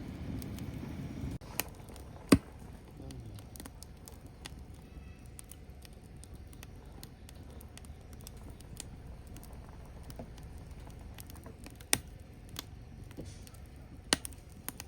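Burning firewood crackling, with scattered small ticks and a few sharp pops, the loudest about two seconds in and others near the end. A low rumble underneath stops abruptly about a second and a half in.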